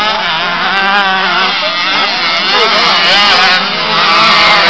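Several youth motocross bikes running loudly on the track, their engines revving up and down at different, overlapping pitches.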